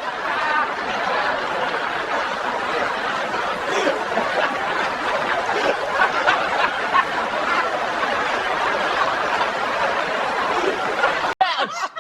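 A roomful of people laughing together, many voices at once in a dense, continuous wash, cutting off abruptly near the end.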